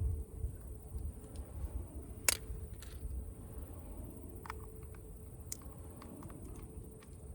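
Wood fire crackling in a small wood-burning camp stove: scattered sharp pops and snaps, the loudest a little over two seconds in, over a low rumble.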